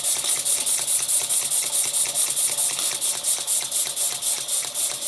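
Stuart S50 model steam mill engine running smoothly on low steam: a fast, even beat of exhaust puffs over a steady hiss of steam.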